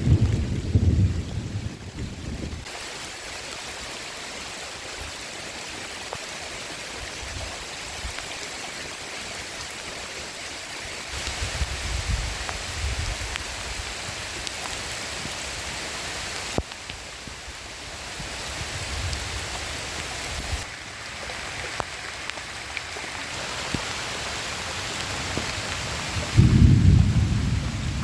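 Heavy rain falling steadily, with low rumbles of thunder that come and go, the loudest near the end. The rain's sound shifts abruptly several times.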